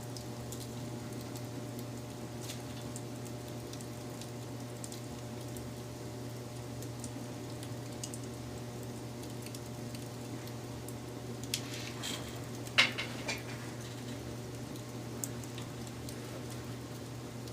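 Wood fire burning: a steady low background with scattered soft crackles, and a quick run of louder pops and snaps about twelve seconds in.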